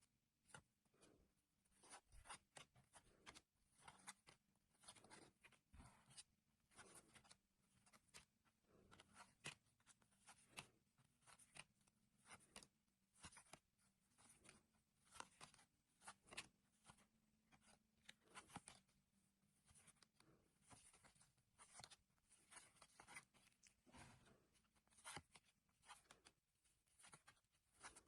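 Faint, irregular rustling and soft clicks of trading cards being handled and slid against one another, several small sounds a second.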